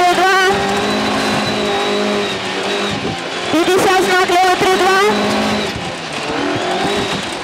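Rally car engine pulling hard at high revs on a gravel stage, heard from inside the cabin: its pitch holds steady for the first few seconds, then wavers quickly as the car bounces over rough gravel, and it eases off about six seconds in.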